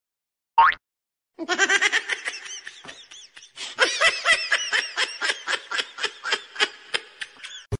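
A woman laughing hard in a long run of quick, high-pitched 'ha-ha' bursts, starting about a second and a half in after a brief rising squeak.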